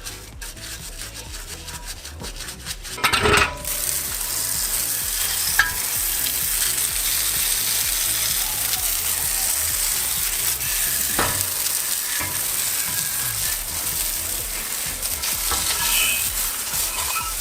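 Paint being sprayed onto a motorcycle frame: a steady hiss that sets in after a clatter about three seconds in, with a sharp click partway through.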